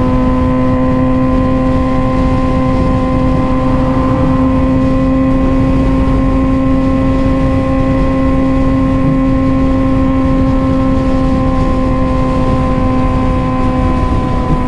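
Suzuki GSX-R600 motorcycle engine running at a steady, fairly high pitch while riding at constant speed, with wind rush underneath.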